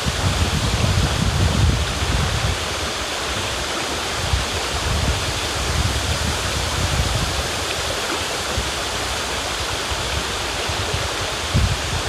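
River water rushing steadily, with a low rumble underneath that swells and fades.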